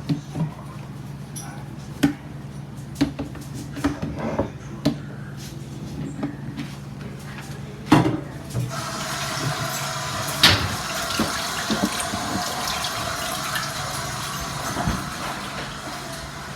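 Rain falling, with scattered drips tapping. About nine seconds in, a louder, steady rush of heavy rain and running water sets in.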